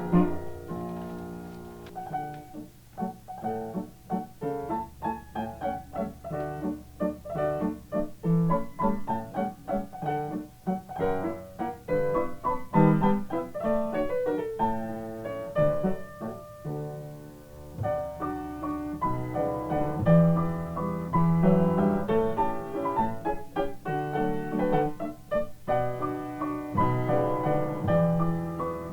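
Yamaha upright piano playing a Viennese waltz, a steady bass-and-chord accompaniment under a flowing melody, recorded on reel-to-reel tape.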